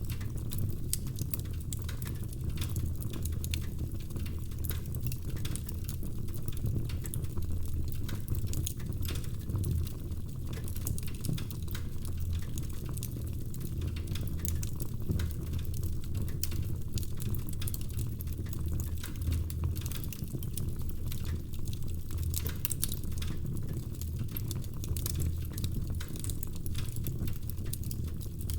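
Wood fire crackling in a fireplace: a steady low rumble of burning logs with many small irregular pops and snaps.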